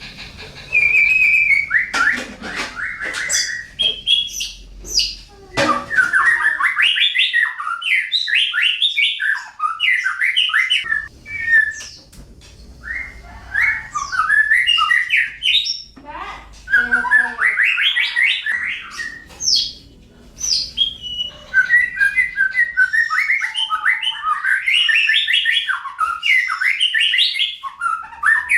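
Songbird singing in long runs of rapid, varied chirps and warbles, broken by short pauses every few seconds.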